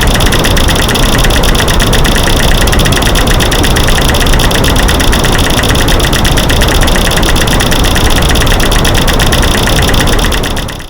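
A loud, fast, continuous clatter of clicks and knocks over a white-noise hiss: light-switch clicks, snapping sticks and rocks banged together, mixed into one dense masking noise. It fades out at the very end.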